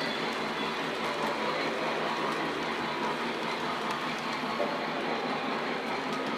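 Lionel model train running steadily on its track, a continuous whir and rattle of motor and wheels.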